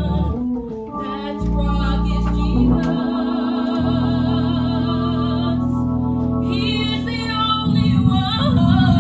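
Gospel music: held organ chords changing every second or two, with a voice singing over them. It grows a little louder near the end.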